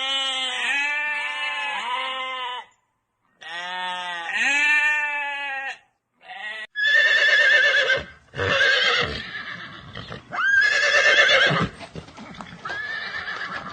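Two long, wavering bleats from a farm animal, then, after an edit about seven seconds in, a horse whinnying in four trembling, high calls.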